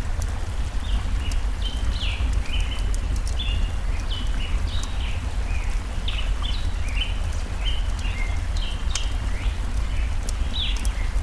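Songbirds chirping in short repeated phrases over the steady rush and low rumble of a flowing stream, with a few sharp pops and crackles of a burning wood fire.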